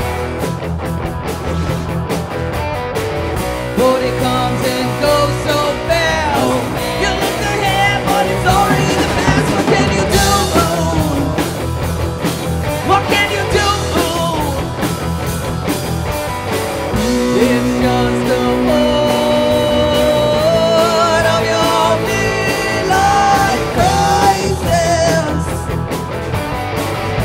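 Rock band playing: electric guitar, bass guitar and drums, with a lead melody that bends and wavers in pitch over the band.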